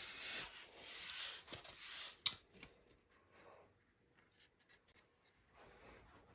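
Scratchy rubbing and rustling as the packaging is handled, then a single sharp snip a little over two seconds in as small clippers cut a tie on the printer, followed by a few faint clicks.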